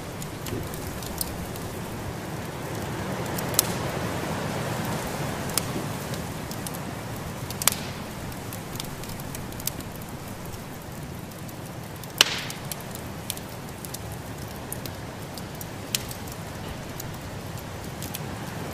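Wood fire crackling in a fireplace: irregular sharp snaps and pops over a steady rushing noise, with the loudest snaps about 4, 8 and 12 seconds in.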